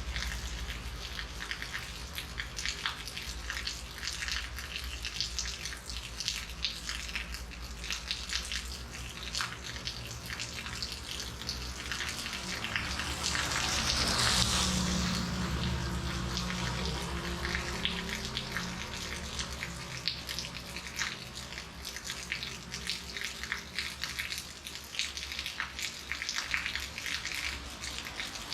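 Steady rain falling, with many separate drops ticking and pattering on a hard surface. The rain swells louder for a few seconds about halfway through, then eases back.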